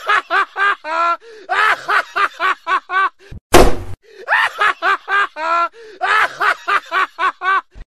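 A single hard slap across the face about three and a half seconds in, loud and sharp, set among runs of rapid, rhythmic laughter.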